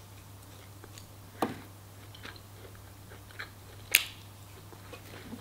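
Close-miked eating of fried chicken: soft chewing with a few sharp, crisp bites and clicks, the loudest about four seconds in. A steady low hum runs underneath.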